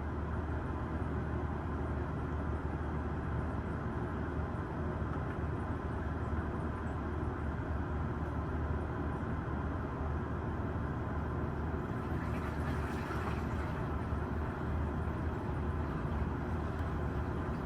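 A steady low mechanical hum with an even rushing noise.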